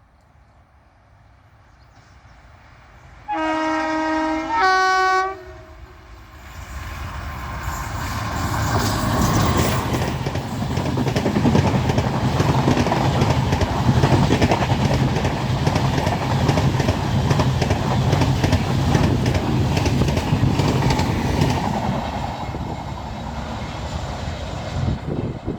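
Express train's locomotive sounding two horn blasts, the second shorter and higher-pitched. The train then comes closer and runs past, its loud rumble and wheels clattering over the rail joints building and then easing slightly near the end.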